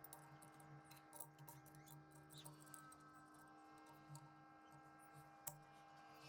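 Near silence: a faint steady hum with a few light clicks, and one sharper click about five and a half seconds in.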